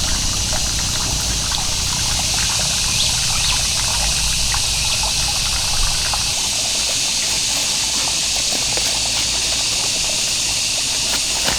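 Running water trickling steadily, with scattered small clicks and taps.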